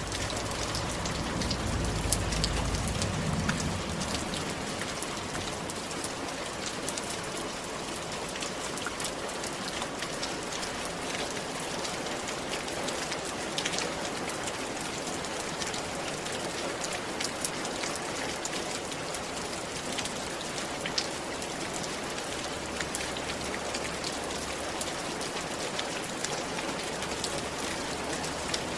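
Steady rain falling on a roof: a dense, even hiss dotted with many sharp ticks of individual drops. A low rumble swells and fades in the first few seconds.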